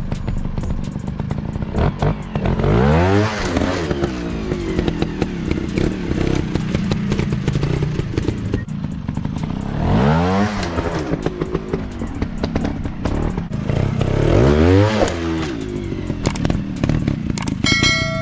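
Dirt bike engines revving on an off-road trail, with three surges that each rise and fall in pitch, and clattering knocks throughout.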